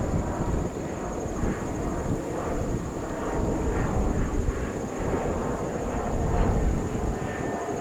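Jet airliner engines heard from a distance, a steady low rumble with a crackling texture.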